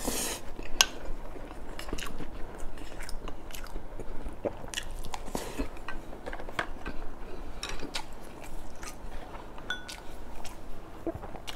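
A person chewing a mouthful of food close to the microphone, with many small, irregular mouth clicks.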